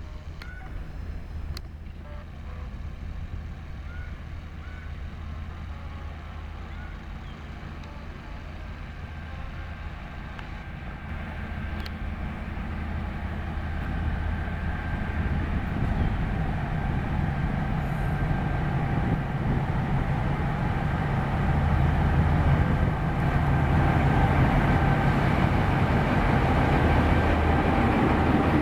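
KTM Class 24 diesel locomotive approaching with a passenger train, its engine drone growing steadily louder.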